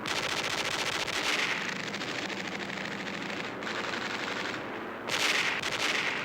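Aircraft machine guns firing in long, rapid bursts, with the loudest fire in the first second or so and again about five seconds in.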